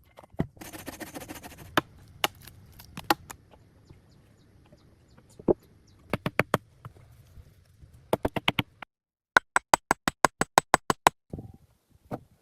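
Sharp knocks, like tool strikes, come singly and then in quick runs. The longest and loudest run is about a dozen even strikes, roughly seven a second, starting a little after nine seconds in.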